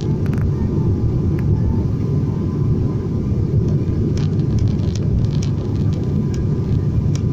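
Steady low rumble of a turboprop airliner's engines and airflow heard inside the cabin on the approach, with a faint high steady tone above it.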